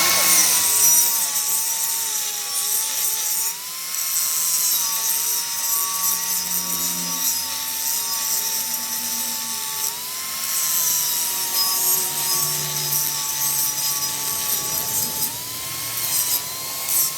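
A handheld electric power tool spinning up and running on metal, its motor whine sagging and recovering several times as it is pressed into the work, over a steady abrasive hiss.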